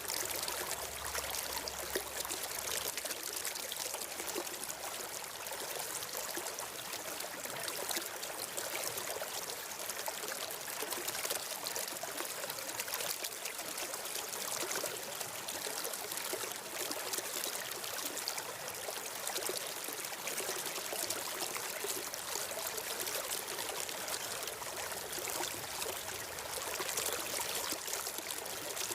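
Steady flowing water of a stream, an even rushing and trickling that doesn't change.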